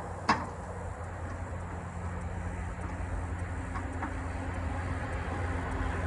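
International 3688 tractor's diesel engine running steadily at idle, a low even hum, with a sharp click just after the start.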